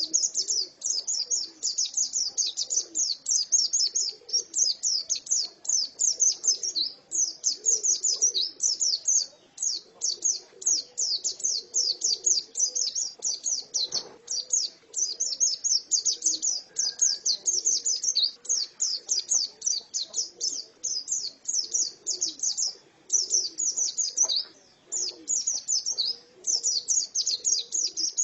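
A female white-eye (pleci) singing a long, fast warble of rapid, high-pitched chirps that runs on with only brief pauses. A single faint click about halfway through.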